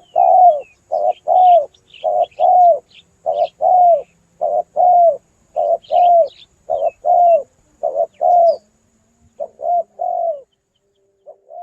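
Spotted dove (tekukur) cooing over and over, each phrase a short coo followed by a longer falling coo, about one phrase a second with a brief pause near the end. Faint high chirps of small birds sound behind it.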